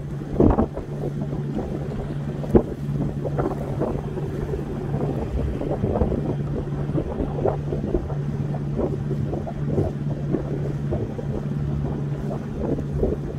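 A boat's engine running at a steady low hum, with water splashing and wind buffeting the microphone. There are two sharp knocks near the start.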